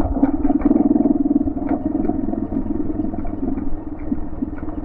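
Motorbike engine running steadily under way on a rough dirt track, with small knocks and rattles from the bumps.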